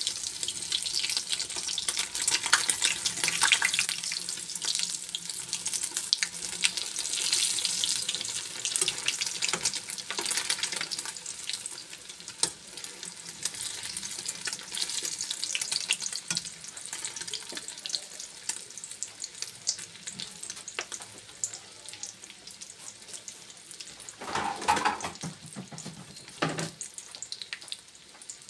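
Egg-battered stuffed chiles (chiles rellenos) frying in hot oil: a steady sizzle with dense crackling, heavier in the first half and dying down after. Two short, louder noises come near the end.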